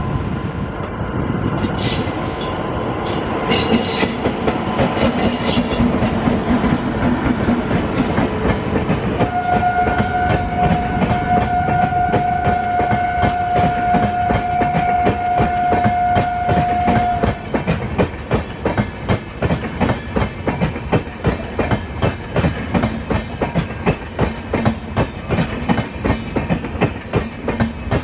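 Indian Railways trains passing at speed, with wheels running and clattering on the rails and a few brief squeals. About nine seconds in, a locomotive horn sounds one long steady blast lasting about eight seconds. After the horn ends, the wheels settle into a fast, even clickety-clack over the rail joints.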